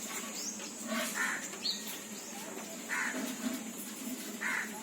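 A crow cawing three times, short harsh calls about a second and a half apart, with a small bird chirping once between the first two.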